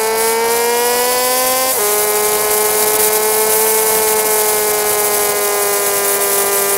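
Honda Grom MSX125's single-cylinder engine running hard, sped up along with the footage so it comes through as a high, power-tool-like whine. Its pitch drops suddenly about two seconds in, as at a gear change, then sags slowly. A steady hiss of wind and rain on the microphone runs under it.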